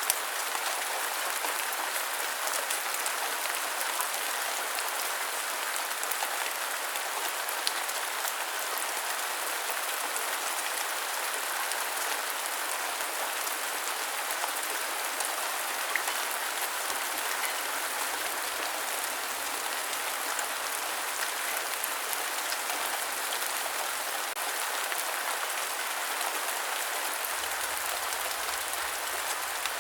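Steady rain falling, an even hiss with scattered drop ticks and a few sharper single drops.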